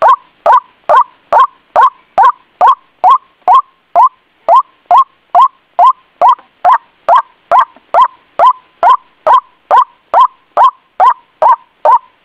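White-breasted waterhen call played as a lure recording: short upward-sweeping notes repeated very evenly, a little over two a second.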